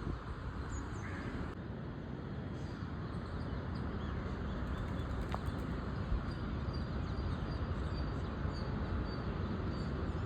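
Steady low wind rumble with faint, short, high bird chirps scattered through it, more frequent near the end.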